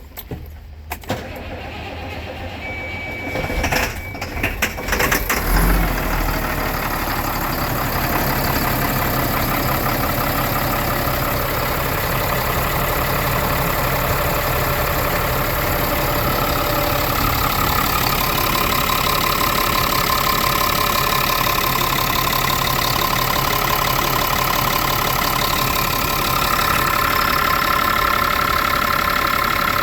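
Caterpillar 3126 inline-six diesel engine cranking and catching about five seconds in, then settling into a steady idle.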